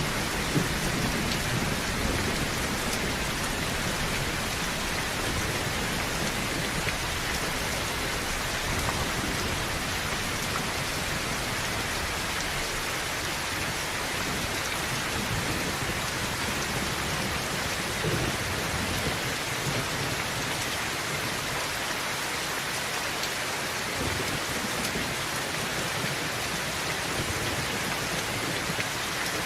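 Heavy rain falling steadily on a tin roof, with low thunder rumbling near the start.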